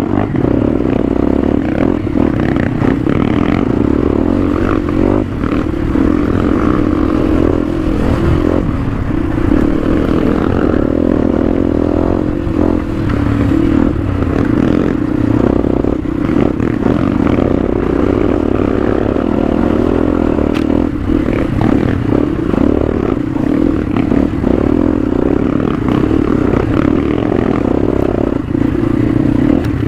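Motorcycle engine running steadily while riding a steep, rough track, with the bike rattling and scraping over the bumps.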